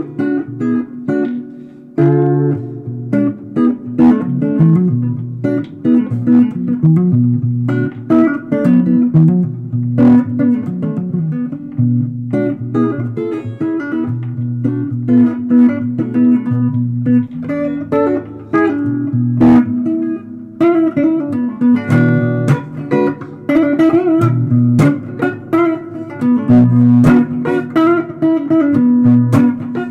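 Guitar improvising in a blues vein: runs of quick plucked notes over sustained low notes.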